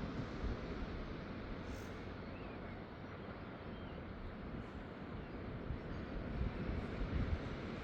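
Seaside wind and surf: a steady rushing wash with uneven low rumbles of wind buffeting the microphone, swelling a little near the end.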